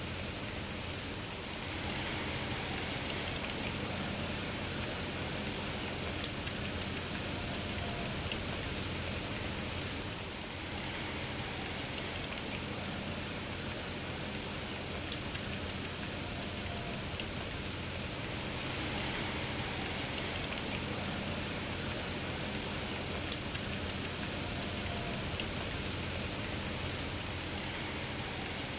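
Steady rain falling, with three sharp clicks about eight seconds apart standing out above it.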